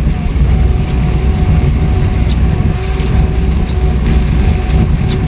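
Steady low engine and road noise inside a moving car, with a faint steady hum over it, driving on a wet road in light rain.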